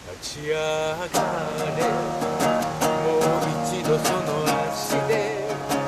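Acoustic guitar strummed in a steady rhythm, about two to three strokes a second, playing the chords of a song between sung lines.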